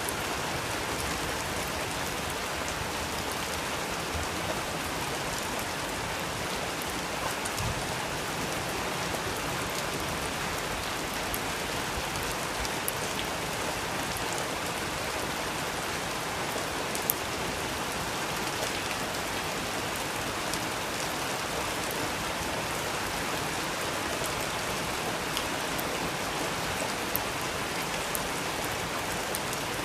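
Steady rain falling, an even hiss with a few sharper taps scattered through it.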